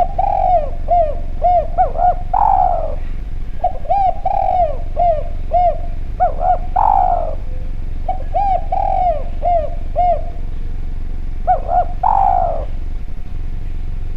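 Spotted dove (derkuku) cooing: three song phrases, each a run of short coos ending in one longer, louder coo. A steady low hum lies underneath.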